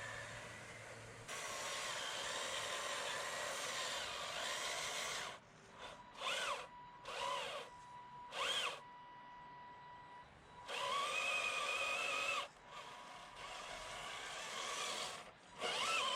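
Electric motor and gearbox of a radio-controlled 6x6 truck whining under throttle. The whine rises and falls in pitch, in several short bursts in the middle and longer runs before and after.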